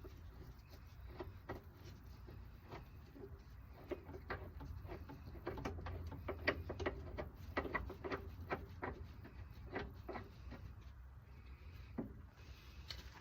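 Hand tools and metal parts clicking and knocking at irregular intervals during suspension work, over a low steady hum. The clicks come most thickly in the middle.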